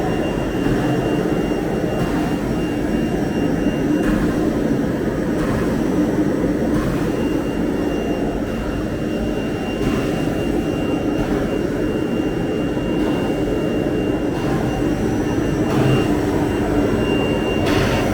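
CNC router running steadily, a continuous machine drone with a thin high whine held throughout.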